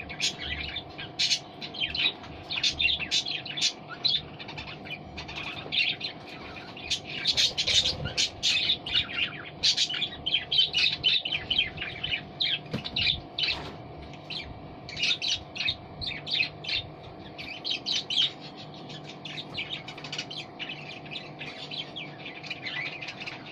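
Budgerigars chirping and chattering in a steady run of quick, short calls.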